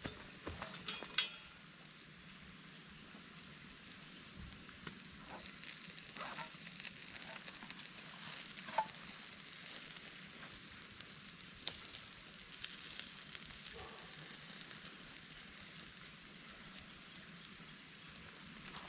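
Steak sizzling quietly on bare campfire coals, with scattered pops and crackles from the coals and a couple of sharp knocks about a second in. The sizzle is weak, which the cook puts down to coals not being hot enough.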